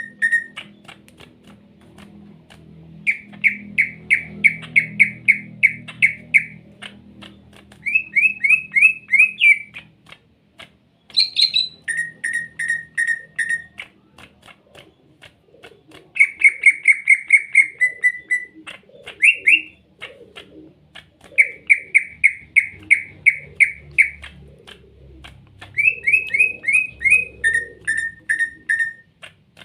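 Cucak ijo (green leafbird) singing in runs of rapid, evenly repeated chirps, about eight a second. Each run lasts one to three seconds, with short pauses between, and some runs begin higher and drop in pitch partway.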